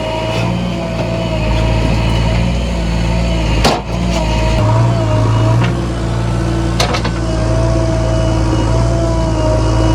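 Heavy diesel engine of earthmoving machinery running steadily at a low, even pitch, with two sharp clicks about four and seven seconds in.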